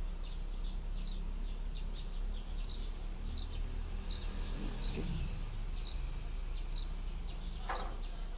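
A bird chirping repeatedly in short high chirps about once or twice a second, over a steady low hum.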